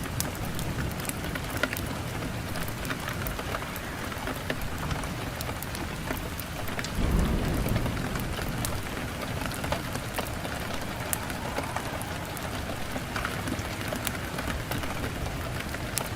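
Wood fire burning in a fireplace: a steady hiss of flames with frequent small crackles and pops. A louder low rumble of the fire swells about seven seconds in.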